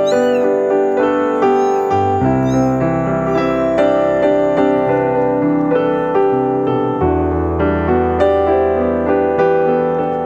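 Background piano music with notes struck at a steady pace. A kitten mews a few times, high and brief, in the first couple of seconds.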